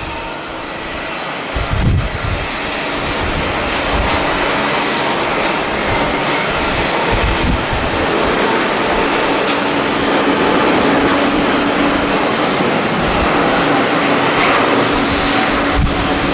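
Jet airliner's engines running as it passes, the noise swelling over the first few seconds and then holding steady with a low hum in it. Gusts of strong wind buffet the microphone at the start and again near the end.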